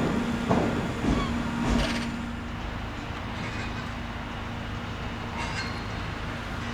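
A Class 350 electric multiple unit's wheels knocking over rail joints about every half second, over a steady hum. After about two seconds this gives way to a quieter, steady rail rumble.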